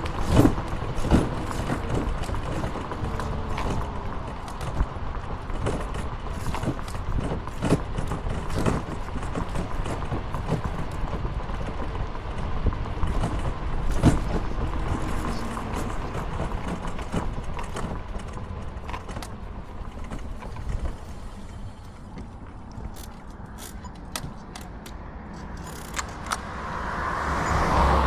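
Steady road and wind noise of a moving ride, with frequent light rattles and knocks from the ride over the road surface. Near the end a car approaches and grows louder.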